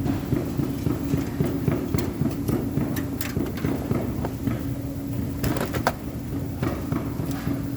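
Steady low machine hum with scattered sharp clicks and taps, a cluster of them about five and a half seconds in.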